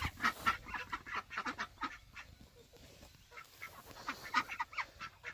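A flock of ducks calling in many short, overlapping quacks, busiest at the start, thinning out in the middle, and picking up again near the end.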